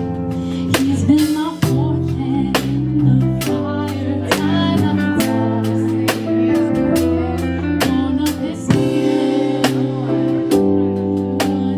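Live gospel worship band music: sustained chords with regular drum hits and a singing voice.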